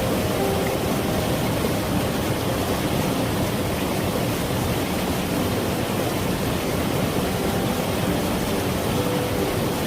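Mountain valley stream flowing steadily, a constant rush of water. Faint notes of gentle background music come through about half a second in and again near the end.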